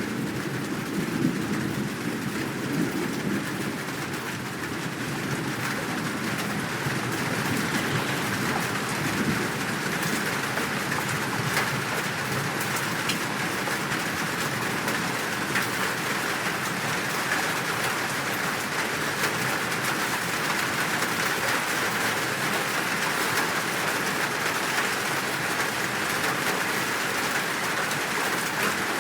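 Steady heavy rain pouring down. A low rumble of thunder fades away over the first few seconds.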